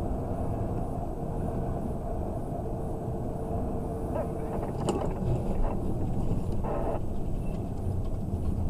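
Steady road and engine rumble of a moving car heard from inside the cabin, with a small click about five seconds in.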